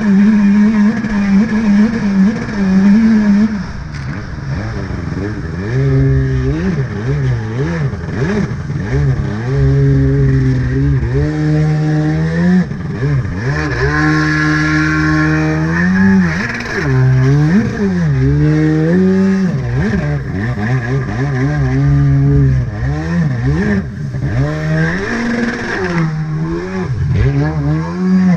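Two-stroke stand-up jet ski engine running, its pitch climbing and dropping again and again as the throttle is opened and eased off.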